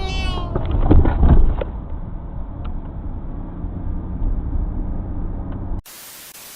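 Dash-cam car audio: a short high-pitched squeal, then a loud crunching collision of several impacts about a second in, followed by a car's steady low road rumble. Near the end it cuts abruptly to a burst of hiss.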